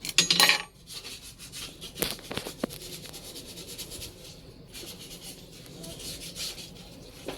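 Rubbing and scraping handling noise, loudest in a burst near the start, with two sharp clicks about two seconds in and softer scraping after; no engine is running.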